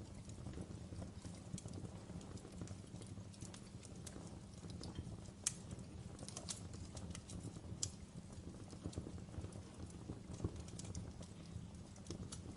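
Wood fire of burning logs crackling, with irregular sharp pops and snaps over a low steady rumble of the flames; a louder pop about five and a half seconds in.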